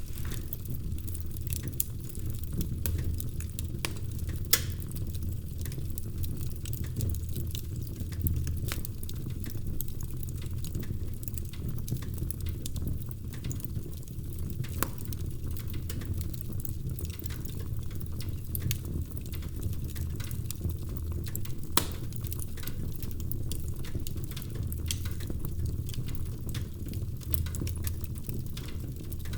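Wood fire crackling in a fireplace: a steady low rumble of the flames with frequent small sharp pops and snaps, and a few louder pops scattered through.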